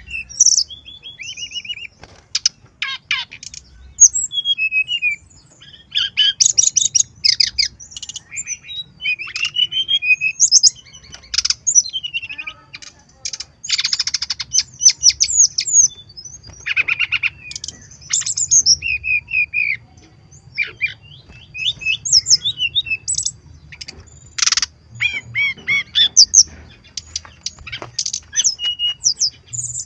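Brown-chested jungle flycatcher singing a long, varied song of high chirps, whistles and quick trills in short phrases with brief gaps. It is a 'full isian' song, packed with mimicked phrases.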